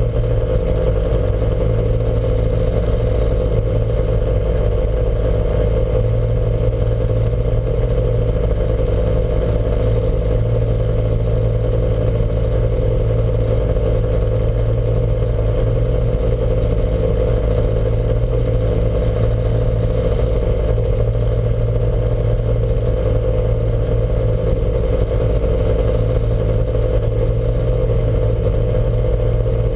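Lancia Montecarlo's four-cylinder engine running at a steady, unchanging speed, heard from on board the car.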